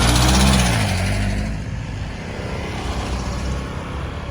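Road traffic: a motor vehicle passes close, its engine note swelling and then falling away with a rush of tyre and wind noise over the first second and a half. Steady traffic noise follows.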